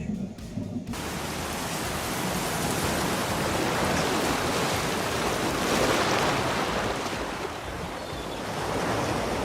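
Sea surf and wind noise: a rushing haze that begins about a second in and swells and falls, loudest around the middle and rising again near the end.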